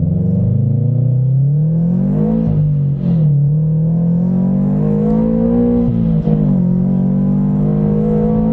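Jackson Racing C30-supercharged 2018 Subaru BRZ's flat-four engine, breathing through a catless header and single-exit exhaust, accelerating hard through the gears. The pitch climbs, drops at an upshift about three seconds in, climbs again, dips at a second shift about six seconds in, then holds high.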